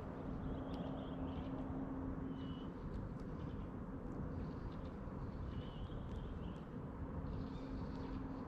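Short, high bird calls repeated every second or two over a steady low outdoor rumble, with a faint steady hum that fades out for a few seconds in the middle.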